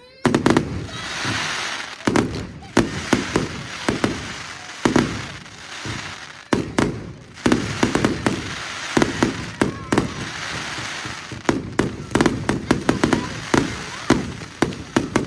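Fireworks display: a loud bang to open, then many shell bursts going off in quick, irregular succession, with crackling and fizzing between the bangs.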